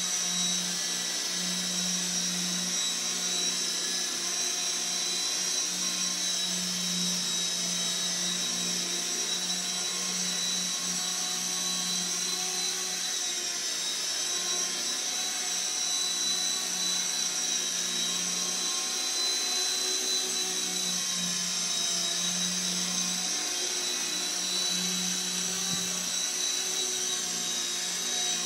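CB180Q electric RC helicopter hovering: the motor and gears give a steady high whine over a low rotor hum. The rotor hum wavers and dips now and then as the throttle is adjusted.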